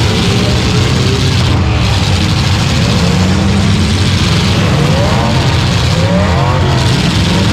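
Demolition derby car's engine running loud, heard from inside the stripped-out cab, with a rising-and-falling whine several times in the second half as it revs.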